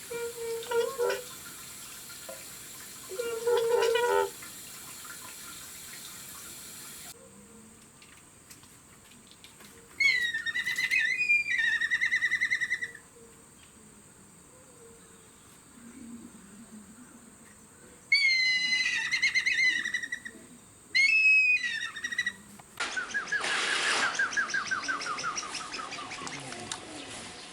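Several bird calls in succession: short low calls at first, then two whistled calls that rise and end in a wavering trill, and near the end a loud, harsh call with many stacked tones.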